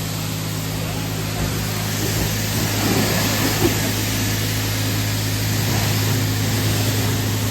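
Car engine idling at a steady speed with no revving, under a steady hiss.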